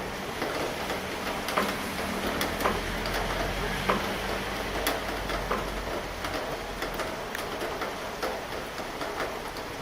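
Rain falling steadily, with many single drops ticking sharply on nearby surfaces at irregular moments. A low rumble rises under it from about two and a half to five and a half seconds in.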